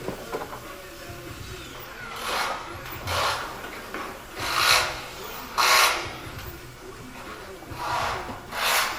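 A hand tool working in short rasping strokes: six strokes in three pairs, each about half a second long.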